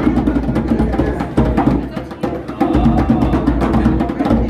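Several drums played together by a group in a fast, busy rhythm of rapid strokes, easing briefly about two seconds in.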